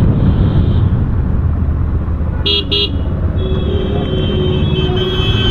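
Road traffic heard from a moving motorcycle, with a steady low engine and wind rumble. A vehicle horn gives two quick beeps about two and a half seconds in, then a longer horn sounds through the last two seconds.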